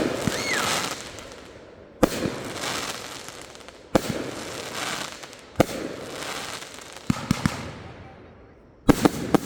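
Backyard fireworks going off: a sharp bang about every two seconds, each followed by crackling that trails away. A few quicker smaller pops come around seven seconds in, and two close bangs near the end.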